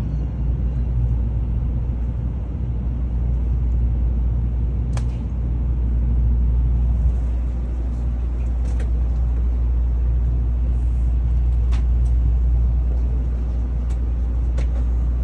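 Steady low rumble of cabin noise inside a Tokaido Shinkansen car during an emergency stop, with a few faint sharp clicks spaced a few seconds apart.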